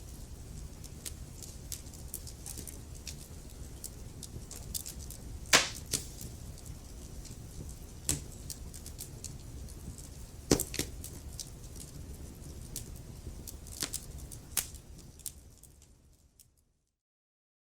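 Log fire crackling, irregular sharp pops over a steady low rumble, with a few louder pops. Near the end it fades out into complete silence.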